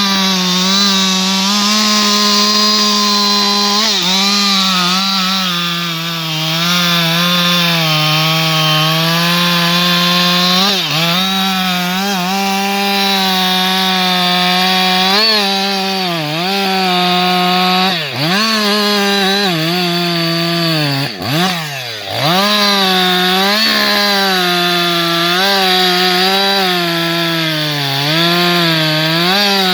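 Husqvarna 560XP two-stroke chainsaw running at high revs while sawing wood. Its engine pitch holds high and steady, then dips sharply and recovers several times. The deepest dip comes about two-thirds through, where the revs nearly fall away before picking up again.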